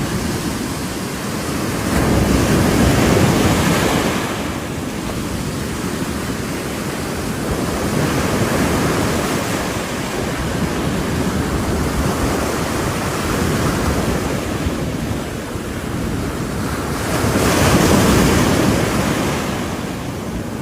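Ocean surf breaking on a shore: a continuous wash of waves that swells as waves break, loudest about three seconds in and again near the end, with wind buffeting the microphone.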